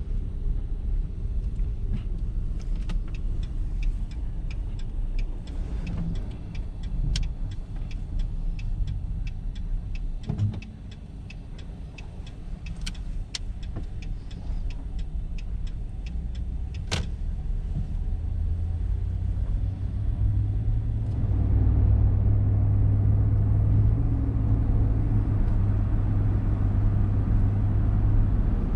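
Truck driving on the road, heard from inside the cab: a steady low engine and road rumble with scattered sharp clicks and rattles. The level dips about ten seconds in, then builds into a louder steady low drone from about twenty seconds in.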